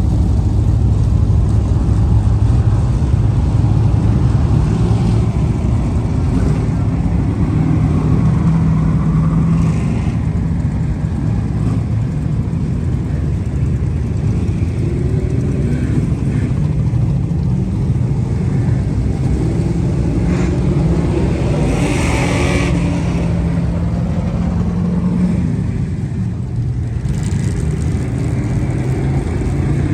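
Car engine running steadily, its pitch shifting a little, with a brief rushing noise about two-thirds of the way through.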